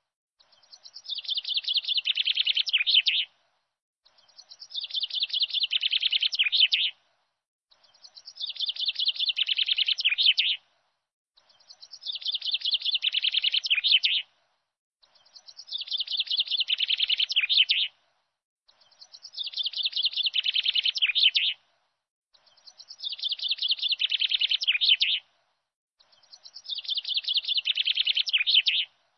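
Birdsong: a burst of rapid chirping that swells in loudness for about three seconds and then cuts off abruptly, repeated the same way eight times, about every four seconds, as a looped recording.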